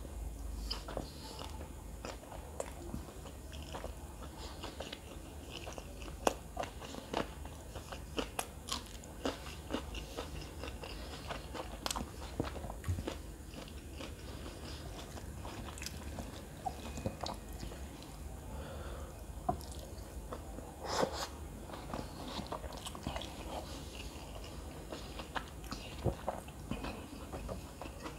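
A person chewing mouthfuls of kottu roti, eaten by hand, close to the microphone: steady chewing with many irregular sharp mouth clicks and smacks.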